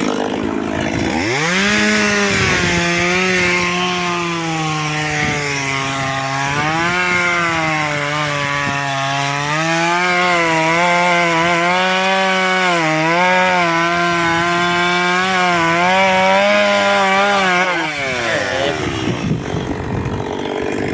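Chainsaw cutting through a log for firewood: about a second in the engine revs up to full throttle and holds there for some sixteen seconds, its pitch sagging and recovering as the chain bites into the wood, then it drops back toward idle near the end.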